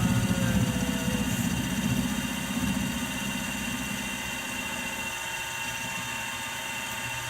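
Milling machine running steadily with a whine of several steady tones; a deeper rumble underneath dies away about five seconds in.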